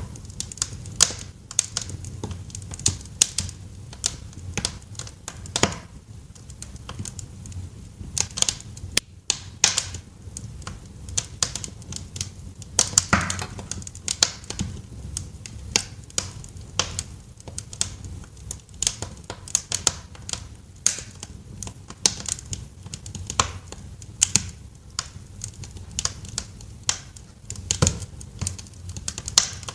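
Wood fire crackling in a fireplace: irregular sharp pops and snaps, several a second and some louder than others, over a low steady rumble of the flames.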